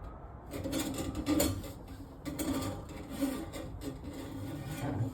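Drain snake scraping and rasping against the inside of a clogged kitchen sink drain pipe as it is worked down through oily buildup, in irregular strokes starting about half a second in.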